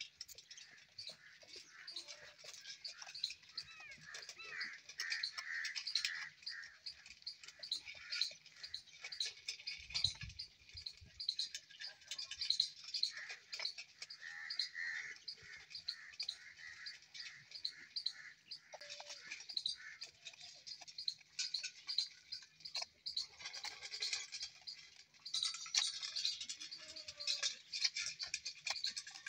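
Many small birds chirping and chattering without a break.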